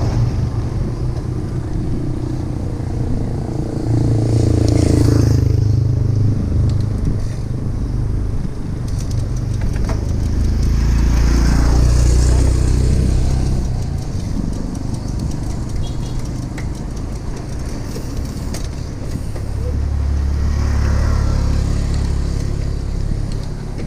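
Wind rumbling and buffeting on the microphone of a camera riding along on a moving bicycle, swelling and easing over several seconds.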